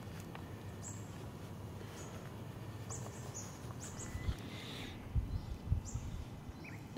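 Birds chirping in the open air: a series of short, high chirps, some falling in pitch, over a steady low outdoor hiss, with a few dull low thumps about midway.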